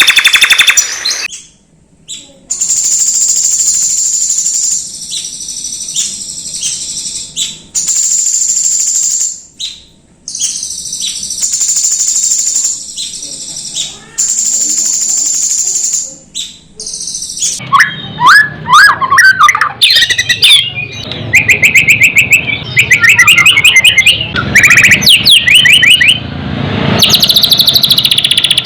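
Songbird song played as a master track for training white-rumped shamas. For the first half it is long, high-pitched buzzing trills broken by short pauses; after that comes a fast, varied run of chirps and sweeping whistles, lower in pitch.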